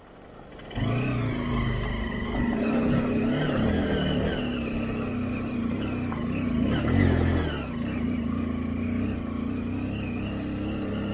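Motorcycle engine running under varying throttle, its pitch rising and falling. It comes in about a second in and surges louder about seven seconds in.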